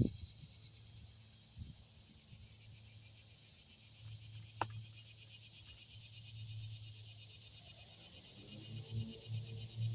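Insects chirring outdoors: a steady, high-pitched pulsing chorus that grows louder from about halfway through, over a low hum, with one sharp click near the middle.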